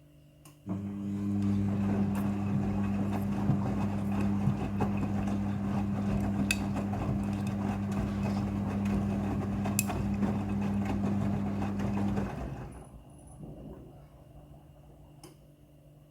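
Midea front-loading washing machine running a pump or water valve: a steady hum with water rushing, switching on abruptly about half a second in and cutting off after about twelve seconds, with a brief fading gurgle.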